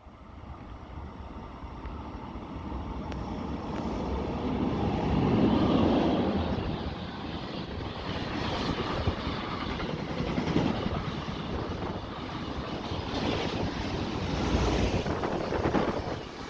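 A train passing close by: a noisy rush of wheels and air that builds to its loudest about five seconds in and keeps going with swells, with wind buffeting the microphone.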